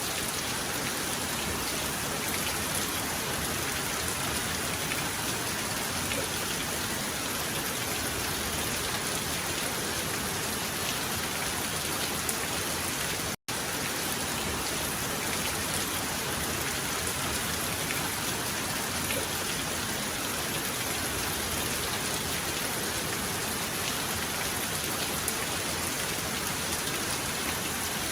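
Heavy rain falling in a steady, dense hiss, with no thunder. About halfway through, the sound cuts out for an instant and then resumes.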